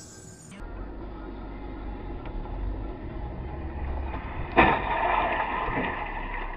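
Car on the move with a steady low road and engine rumble, then a sudden loud bang about four and a half seconds in, followed by a second or so of rattling and scraping noise: a vehicle collision.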